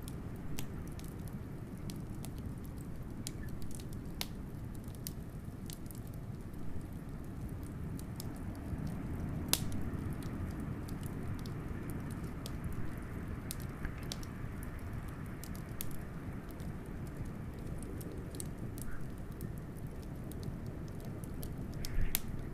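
Wood fire crackling, with scattered sharp pops at irregular intervals, over a steady low rush of blizzard wind.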